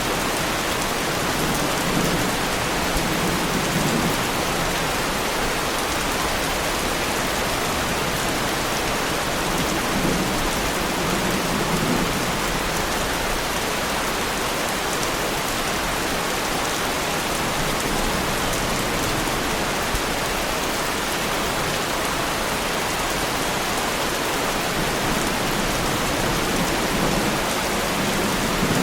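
Heavy rain falling steadily, a dense even hiss of drops, with a faint low rumble swelling twice in the first half.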